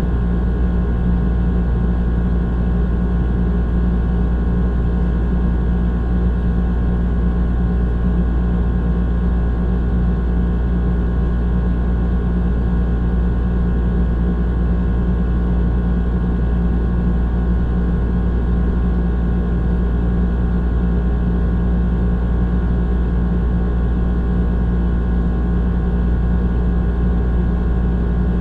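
Old air conditioner running steadily: a constant low electrical hum with a deeper drone underneath and a rough, rattly whir from the fan and compressor, unchanging throughout.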